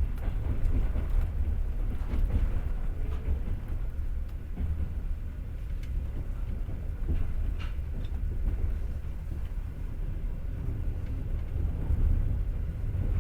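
Passenger train running, its wheels on the rails making a steady low rumble heard from inside the carriage, with a few faint scattered clicks.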